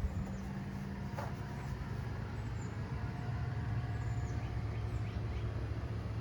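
1966 Ford Mustang GT's 289 V8 engine idling steadily with an even low hum.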